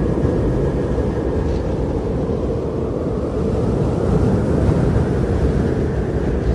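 Strong blizzard wind blowing steadily as a deep, low rush, swelling slightly about four seconds in.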